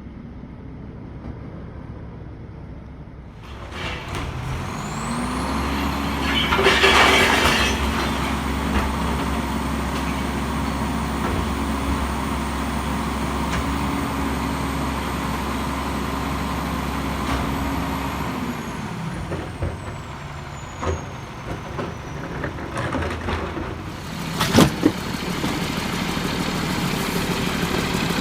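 Garbage truck's diesel engine revving up about four seconds in, holding a raised, steady speed for some thirteen seconds and then dropping back toward idle. A loud burst of hiss comes shortly after it revs up, and a few sharp bangs sound near the end.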